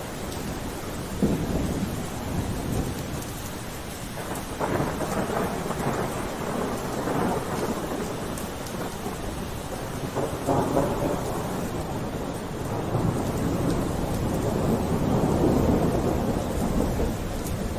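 Steady rain with low rumbles of thunder that swell and fade several times.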